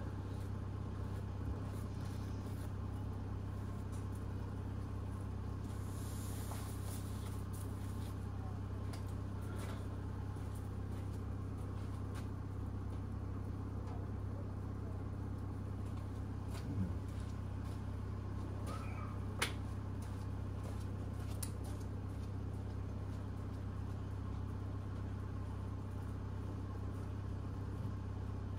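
Jaguar's engine idling steadily, with a couple of brief knocks from the snow brush on the car in the middle.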